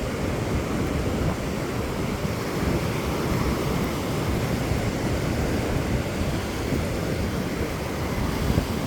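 Wind rumbling on the microphone over steady ocean surf washing onto the beach.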